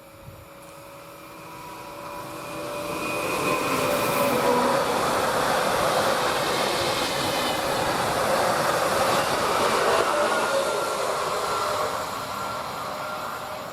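Stadler Flirt electric multiple unit passing by on the line. It grows louder over the first few seconds, passes at full level for several seconds, and begins to fade near the end.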